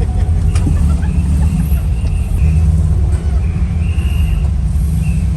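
Volkswagen car running on the road, a steady low engine and road rumble with no revving.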